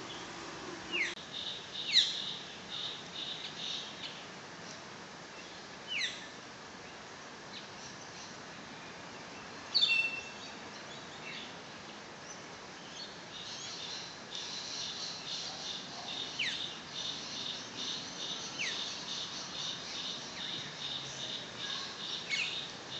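Wild birds calling in forest: sharp, short descending whistles every few seconds, the loudest at about 2 and 10 seconds in. A high pulsing trill runs under them for a few seconds early on and again through the second half.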